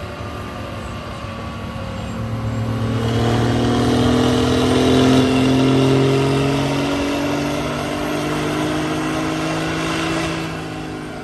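A motor vehicle's engine running close by, growing louder a few seconds in and then easing off, its pitch rising gently throughout.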